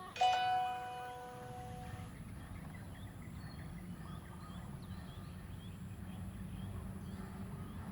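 A single struck metal chime rings out once, fading over about two seconds. After it come scattered faint bird chirps over a low steady rumble.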